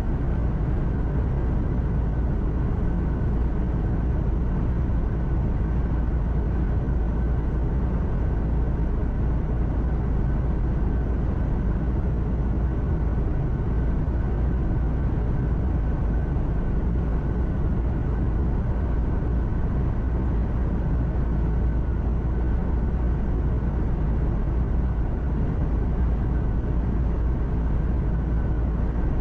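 Steady drone of a truck's diesel engine and tyre noise heard inside the cab while driving at an even speed, with a faint steady whine above the rumble.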